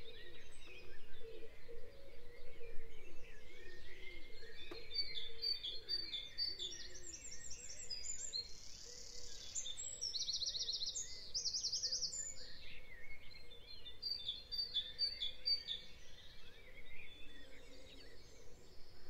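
Birds chirping and singing in the background, with runs of rapid repeated high notes in the middle of the stretch, over faint steady background noise.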